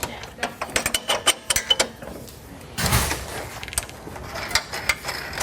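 Metal clicks and knocks of suspension parts and hand tools being worked into position, with a quick run of clicks in the first couple of seconds and a brief scraping burst about three seconds in.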